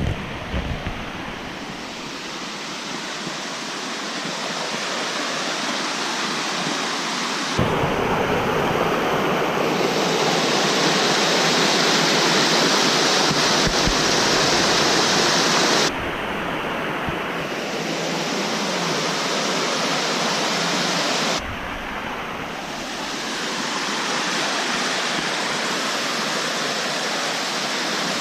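Silver Run Falls waterfall, a steady, loud rush of falling water. The rush jumps abruptly in loudness and tone three times, loudest in the middle stretch.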